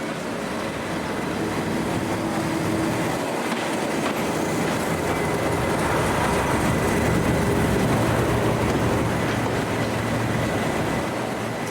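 British Rail heritage diesel locomotive passing with its train, its engine running and wheels rolling on the track, growing louder to a peak past the middle and then easing off.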